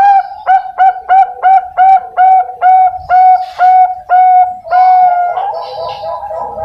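Zebra dove (perkutut bangkok) singing: a quick run of a dozen or so clipped coos, about three a second, ending in a longer drawn-out coo.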